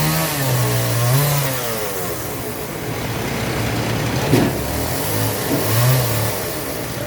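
An engine revving up and down, its pitch rising and falling, with a sharp knock a little over four seconds in.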